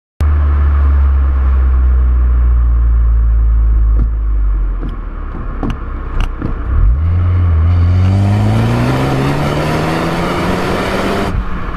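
Ford Focus ST engine pulling hard on a drive: a steady drone at first, a few sharp clicks about halfway through, then the engine note rising steadily as the car accelerates.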